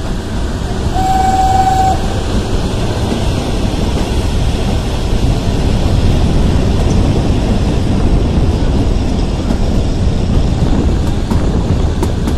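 Kalka–Shimla narrow-gauge toy train running, heard from an open carriage door: a steady rumble of wheels on rail. About a second in, a horn gives one short single-pitched toot lasting about a second.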